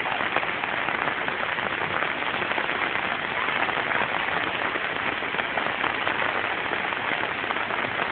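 Heavy rain falling steadily, a dense hiss with many fine drop crackles.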